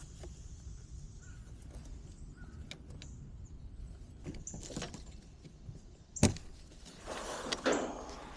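Handling noises: scattered light clicks, a sharp knock about six seconds in, then a second or so of rattling.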